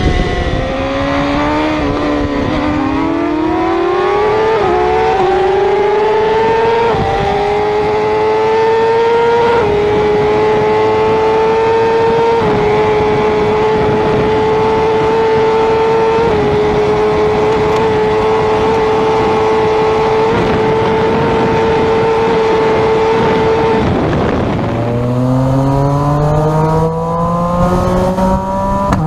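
Racing superbike engine at full throttle, climbing in pitch in steps with each upshift over the first ten seconds, then holding a steady high note over a rush of wind noise. About twenty-four seconds in, the revs drop sharply as the bike slows, then climb again through the gears.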